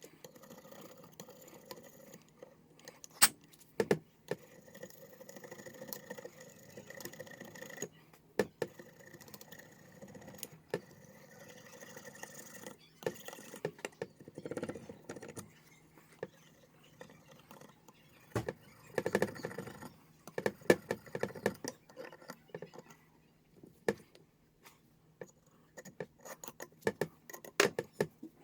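Metal gasket scraper scratching and clicking against a Kawasaki EX250 motorcycle engine case, scraping off old gasket material in irregular short strokes with small clinks. A faint steady hum runs underneath.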